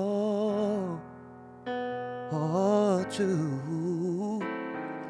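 Slow Korean worship song: a voice holds a note with vibrato over sustained instrumental chords, drops out about a second in, and comes back for a few seconds of wavering singing before the chords carry on alone near the end.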